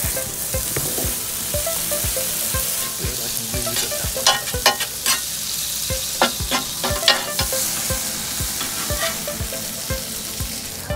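Food frying in butter on a hot Blackstone flat-top griddle: a steady sizzling hiss with scattered sharp crackling pops, busiest in the middle stretch.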